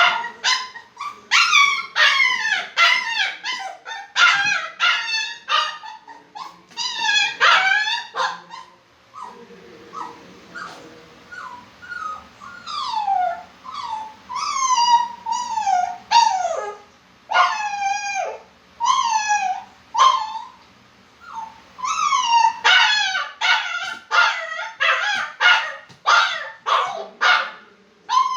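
Poodle whining and yelping. There are runs of quick, high yelps near the start and again in the last third, and in the middle a string of longer whines that each fall in pitch.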